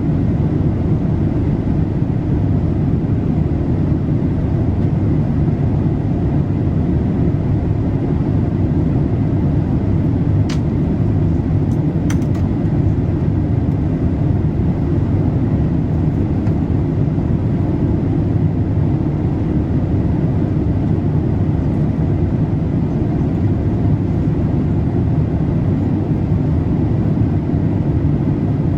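Steady, low in-flight cabin noise inside a Boeing 787-8 airliner: the engines and airflow blend into an even, deep hum that does not change.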